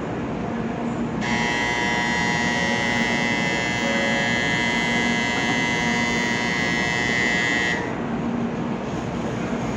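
Shinkansen platform departure buzzer sounding one steady, unbroken tone for about six and a half seconds as the train's doors close, stopping sharply; a low hum from the waiting train runs underneath.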